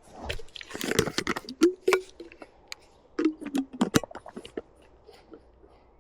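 A run of irregular sharp clicks and knocks, close by, thinning out after about four seconds, with a couple of brief low hums among them.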